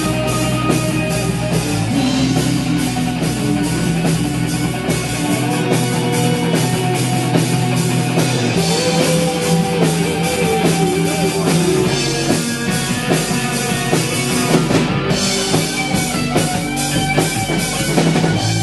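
Rock band playing with drum kit, electric guitar and bass, the drums keeping a steady beat throughout.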